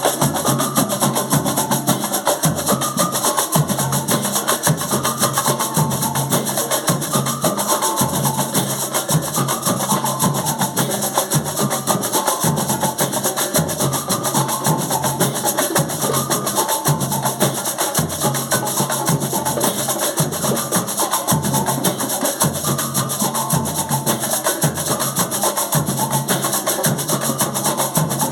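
A band playing live: busy percussion with woodblock-like clicks keeps a steady beat under a short melodic figure that repeats over and over.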